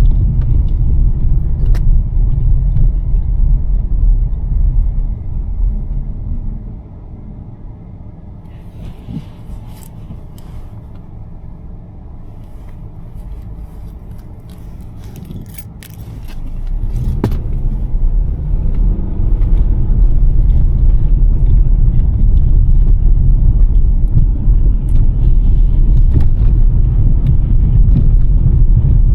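2023 Nissan Sentra on a snowy road: low road and engine rumble that fades away about six seconds in as the car slows to a near stop, with a few light clicks and ticks in the quiet stretch. Around sixteen seconds in the rumble builds again as the car pulls away, the engine note rising.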